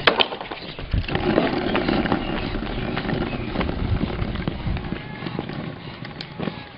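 Skateboard rolling on asphalt, its wheels making a continuous rumble with scattered clicks from about a second in that eases off near the end. A few sharp clacks sound right at the start.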